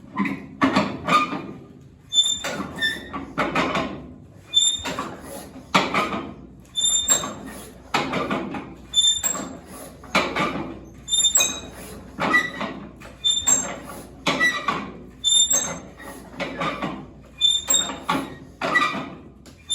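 1937 Massey Harris 25 tractor engine being cranked over by hand, about one crank stroke a second, each with a short squeak, without catching.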